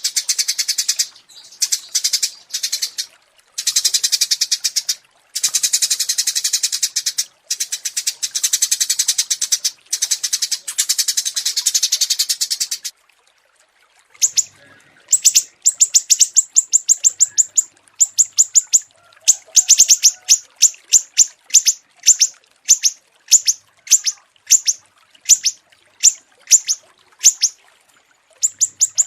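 Small songbirds singing: long, very rapid high trills in phrases of one to three seconds, then, after a brief pause, a long run of short sharp chirps repeated about three times a second.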